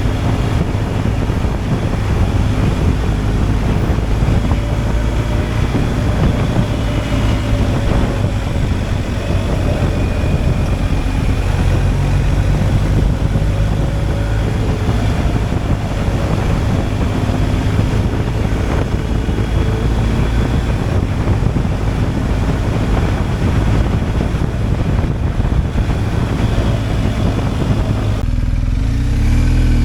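BMW R 1250 GSA's boxer-twin engine running at a steady road speed, with wind rushing over the microphone. Near the end the engine note changes, its pitch rising and falling.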